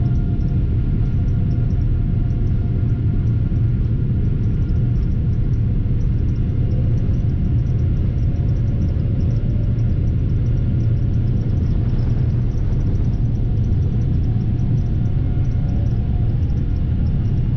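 Steady low rumble of a Boeing 787's jet engines, with a faint steady whine above it.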